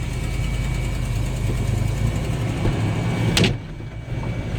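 1995 GMC Topkick truck's engine idling steadily, with one sharp thump about three and a half seconds in.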